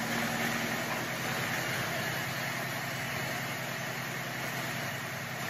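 Freshly rebuilt 1942 Packard 356 straight-eight flathead engine running steadily at idle during its break-in run.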